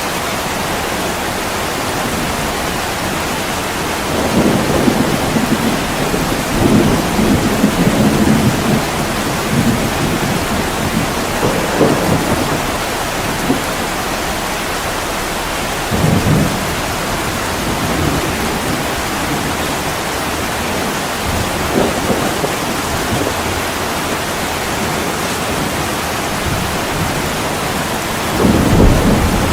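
Heavy rain falling steadily, with low rolls of thunder rumbling in several times: a long roll about four seconds in, shorter ones near the middle, and another building near the end.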